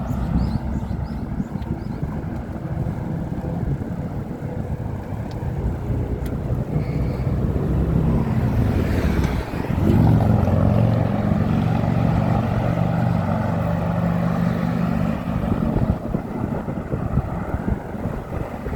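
Road traffic on a six-lane bridge: a steady wash of tyre and engine noise from passing cars. About halfway through one louder vehicle goes by, its engine hum standing out for several seconds before fading back into the traffic.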